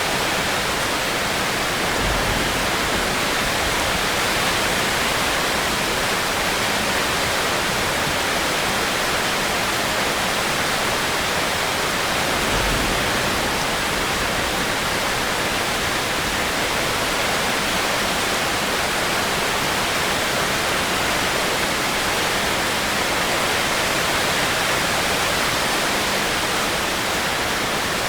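Steady heavy rain falling, an even, unbroken hiss, with a brief low rumble about two seconds in and another near the middle.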